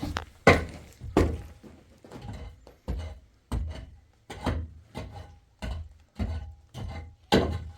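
Repeated heavy blows of a hand tool striking a hard material, about eleven thuds evenly spaced, roughly three every two seconds.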